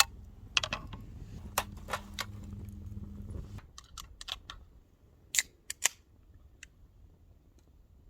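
Wood campfire crackling: irregular sharp pops and snaps, over a low hum that stops about three and a half seconds in.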